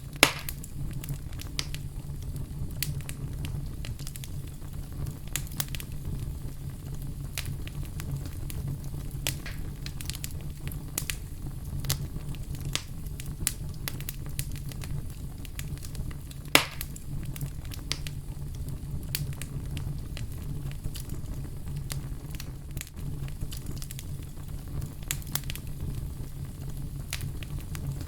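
Fire crackling: a steady low rumble of flames with scattered sharp pops and snaps, two of them louder, about a second in and about halfway through.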